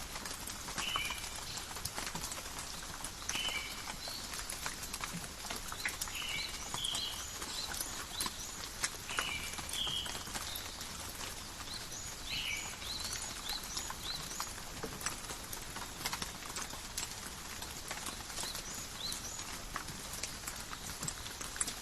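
Steady forest rain, with many individual drops pattering and dripping on leaves. A bird calls repeatedly through it, short chirps every two to three seconds.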